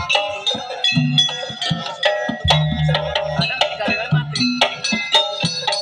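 Javanese jaranan gamelan music: hand drums beat a fast, busy rhythm under ringing struck metal instruments playing a pitched pattern.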